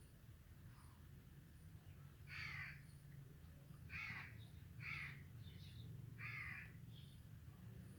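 A bird cawing: about four harsh calls a second or so apart, with a couple of fainter ones between, over a faint steady low hum.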